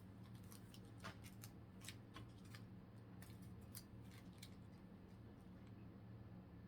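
Faint, sharp clicks and ticks of Pokémon trading cards being handled and flipped through, over a faint steady low hum.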